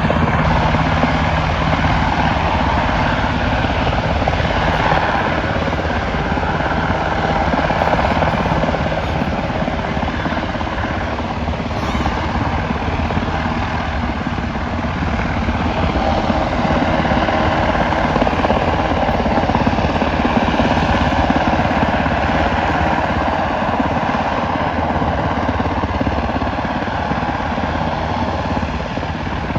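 Helicopter in flight, its rotor chopping rapidly and steadily over the turbine's running noise, loud throughout and swelling and easing slightly as it moves.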